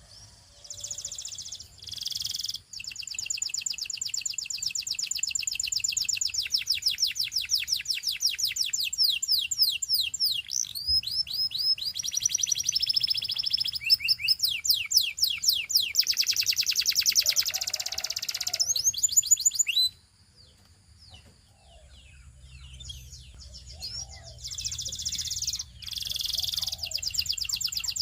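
Canary singing fast trills: long runs of rapidly repeated high notes, each phrase a different series. The song breaks off about twenty seconds in and starts again a few seconds later.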